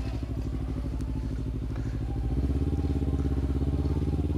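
Kawasaki Ninja 300 parallel-twin engine running at low revs as the bike rolls slowly, picking up a little in revs and loudness about two seconds in.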